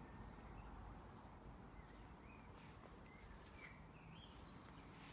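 Near silence: faint outdoor background hiss with a few faint, short bird chirps.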